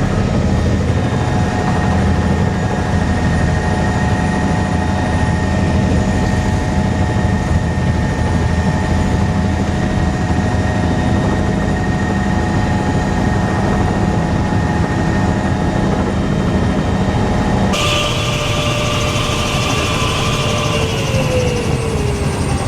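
Helicopter heard from inside the cabin, running loud and steady with a constant rotor and engine drone. About three-quarters of the way through the sound changes abruptly, and near the end a whine falls steadily in pitch as the engine winds down after landing.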